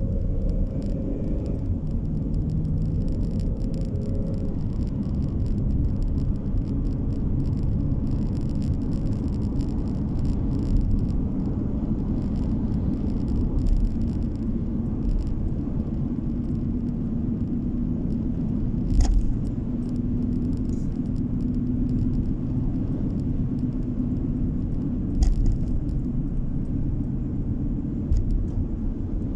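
Car driving on a road, heard from inside: a steady low rumble of tyres and engine, with two sharp knocks from bumps in the road, the first about two-thirds of the way through and the second a few seconds later.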